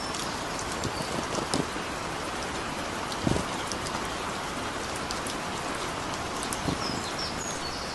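Heavy rain falling steadily, with scattered individual drops ticking and splashing and one heavier, deeper drop a little over three seconds in.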